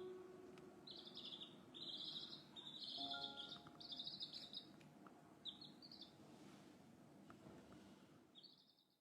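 Chicks peeping: a run of high, faint chirps, one about every half to three-quarters of a second, that stops about six seconds in, with one more chirp near the end. A few faint held music notes sound underneath.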